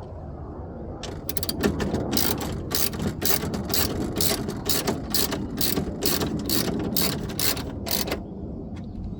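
Hand ratchet wrench clicking steadily, about three or four clicks a second, as the window regulator's mounting bolts are snugged up inside the car door. The clicking starts about a second in and stops shortly before the end.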